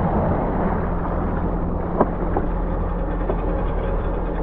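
Supercharged four-stroke engine of a Yamaha GP1800R SVHO jet ski running at a steady low speed, with a short click about two seconds in.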